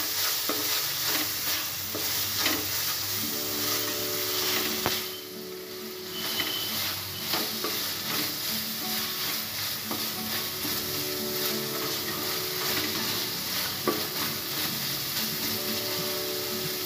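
Crumbled paneer with chopped carrot and onion sizzling in a nonstick kadai while a spatula stirs and scrapes it, frying off its extra moisture. A steady frying hiss runs under scattered spatula scrapes and taps, dipping briefly about five seconds in.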